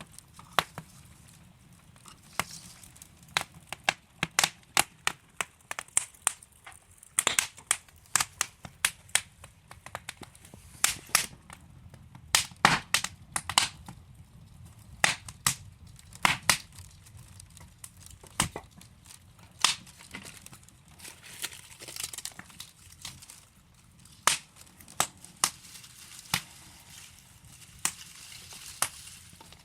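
Wood fire crackling: burning logs giving off irregular sharp pops and snaps, several a second at times, over a faint low rumble of flame.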